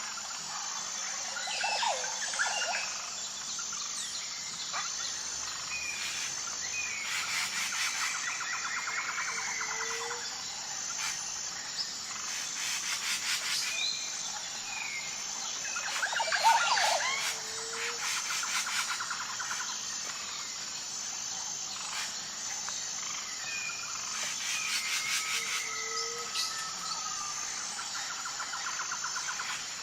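Wild birds calling and singing: varied chirps and whistled phrases, several birds at once, with busier bursts about 2, 8, 16 and 25 seconds in. A steady high pulsing trill runs underneath, and a short low call sounds three times.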